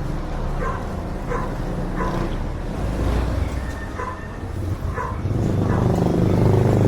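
A dog barking repeatedly in short yips, under a steady low traffic rumble. From about five seconds in, a vehicle grows louder as it passes close.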